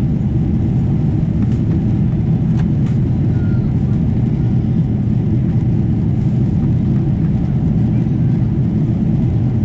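Steady, loud drone of a Boeing 777-200 in flight, its engines and airflow heard from inside the passenger cabin.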